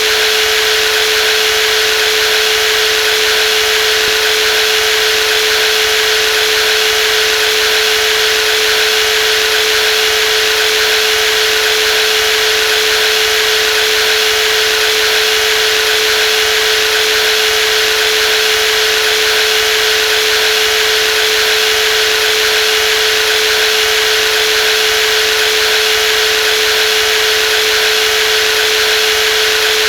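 Brushless jigsaw running steadily at constant speed, a high motor whine over a steady buzzing hiss with no change.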